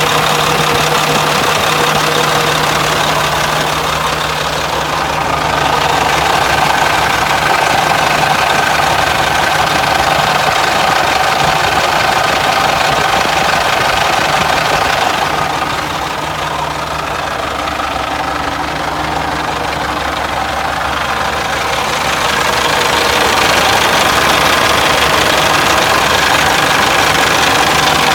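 Caterpillar diesel engine of a 2000 Sterling dump truck idling steadily. The sound turns duller and a little quieter briefly about four seconds in, and again for several seconds around the middle.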